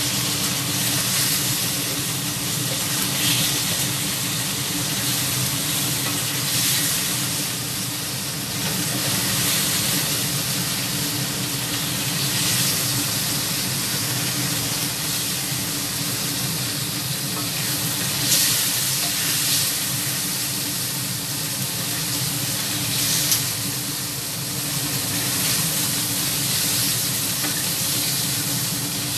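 Bell pepper pieces sizzling as they are stir-fried in a wok, with a steady low hum underneath. The spatula scrapes and knocks against the pan a few times.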